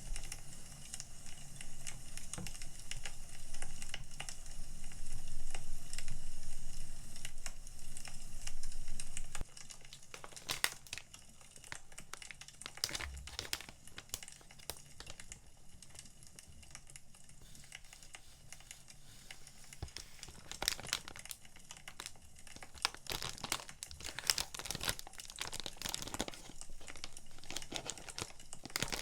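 Paper and plastic packaging crinkling and rustling as sticker packs are handled, with scattered small clicks and rustles. A low steady rumble underneath stops about nine seconds in, and the handling turns quieter and sparser after it.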